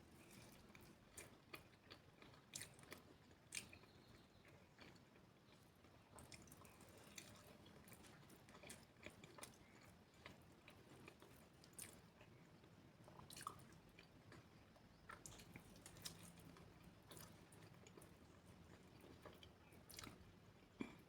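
Faint close-miked eating: chewing and biting, with many irregular small crunches and wet clicks from the mouth and food.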